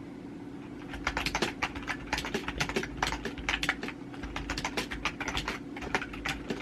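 Typing on a keyboard: quick, irregular key clicks starting about a second in, over a steady low hum.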